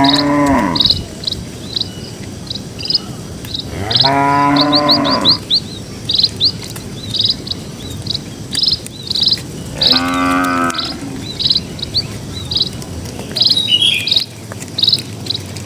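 Cows mooing: the end of one moo at the start, then two long moos of just over a second each, about 4 seconds and 10 seconds in. A steady series of short high chirps repeats throughout.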